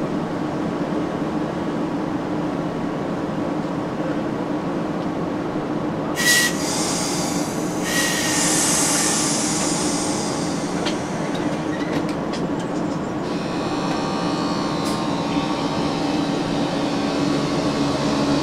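Interior of a modernised SNCB AM80 electric multiple unit at a station departure: the train hums steadily. About six seconds in there is a sharp clack with a brief tone, and two seconds later a hiss. From about thirteen seconds in, whining tones from the traction equipment come in as the train starts to pull away.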